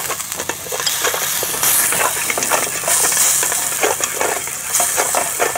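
Minced garlic and onion frying in duck fat in a pot: a steady sizzle, with a utensil stirring and clicking against the pot many times.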